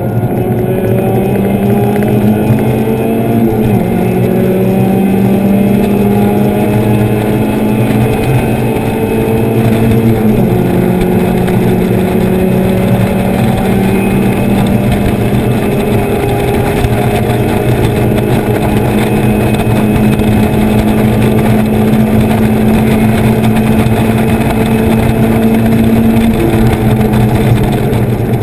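Mazda Miata race car's four-cylinder engine running hard at track speed, heard from inside the open cockpit. Its note holds high and rises and falls gently, over steady wind and road noise.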